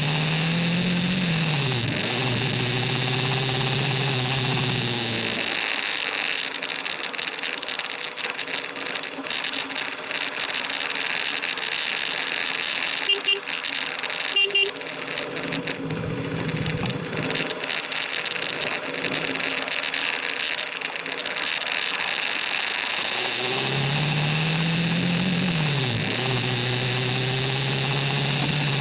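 KTM RC 390 single-cylinder engine accelerating with a gear change at the start, under steady wind and road noise. The engine then drops back and goes quiet for most of the middle, where the sound turns crackly and two short beeps are heard, before it accelerates again with another shift near the end.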